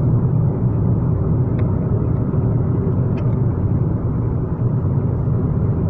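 Steady low rumble of a moving car, its road and engine noise.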